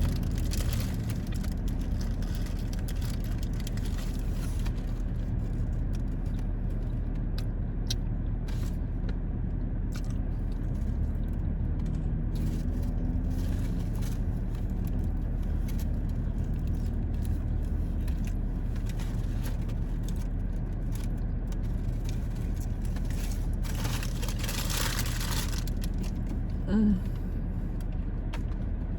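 Car engine idling, a steady low hum heard from inside the cabin, with a few brief rustles and handling noises; the longest rustle comes about five seconds before the end.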